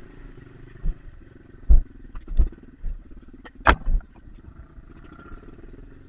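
Dirt bike engine running steadily at low revs, with several sharp knocks over it, the loudest a little past halfway.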